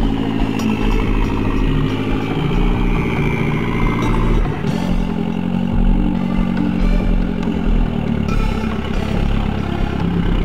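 Toyota Celica ST165's 3S-GTE turbocharged four-cylinder engine running, its pitch rising and falling as it is revved.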